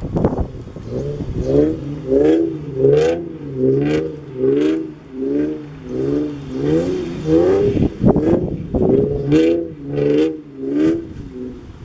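Infiniti G37xS's 3.7-litre V6 through an Ark Grip exhaust, revving up and falling back over and over, about one and a half times a second, as the car spins donuts in snow.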